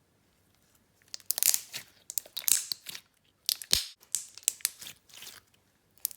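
Hands squishing and stretching a clear slime, making irregular sticky crackles and pops. They start about a second in, with one sharper pop past the middle.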